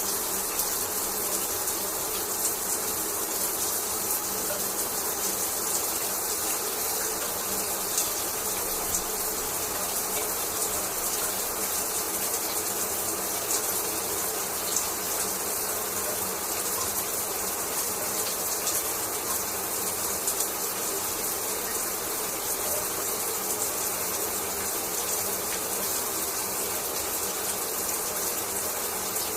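Shower spray falling steadily, a constant hiss of water with faint small spatters.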